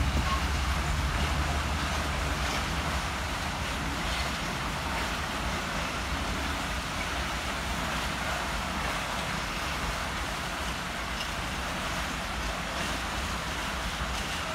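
Colas Rail diesel locomotive's engine drone fading as it moves away, giving way to the steady rumble of its loaded flat wagons rolling past on the rails.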